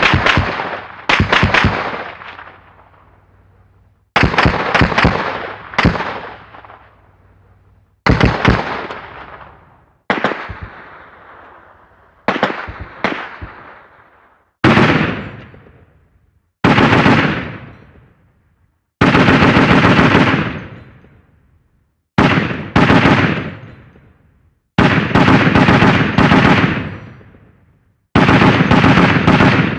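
A run of separate gunfire sound effects, mostly rapid automatic bursts, each starting suddenly and fading out over a second or two, one roughly every two seconds.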